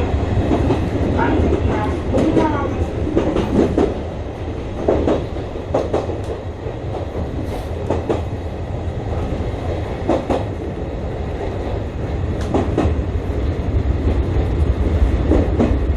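Chichibu Railway 5000-series electric train running along the track: a steady low rumble of the wheels on the rails, with sharp clacks as the wheels cross rail joints, some in close pairs.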